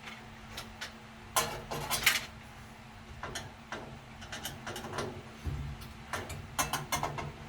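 Hand work on a washing machine's metal parts: scattered clicks and knocks of tools and parts being handled, the loudest cluster about one and a half to two seconds in and more near the end, over a faint steady hum.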